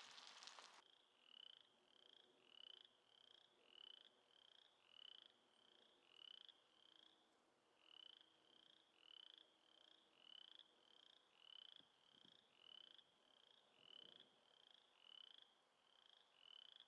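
Frog calling faintly: short high peeps repeated about one and a half times a second. A burst of hiss cuts off about a second in.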